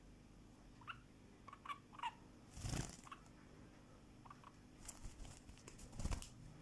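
Pet bird giving a few soft, short chirps, with two brief rustles, the louder one near the end.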